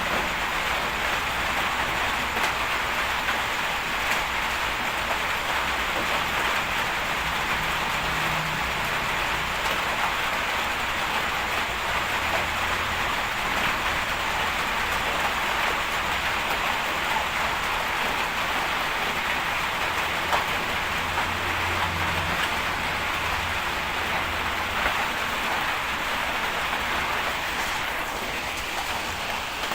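Bulldozer's diesel engine running steadily, heard as an even rushing noise with a low rumble underneath that swells now and then.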